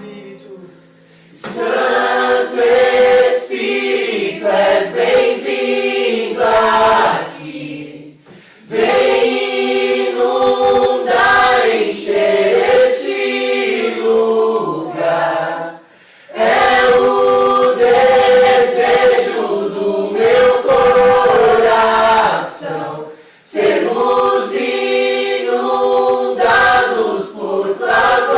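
A small group of voices singing a Portuguese worship song together, in phrases of about seven seconds with short breaks for breath between them.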